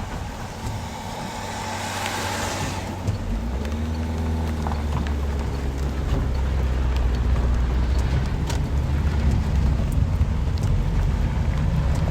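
Motor vehicle in rain: a rush of tyre hiss on the wet surface about two seconds in, then an engine running close by with a low steady hum.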